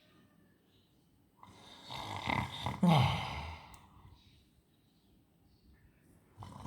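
A dog snoring: one long snore lasting about two and a half seconds, ending in a snort that falls in pitch. The next snore starts near the end.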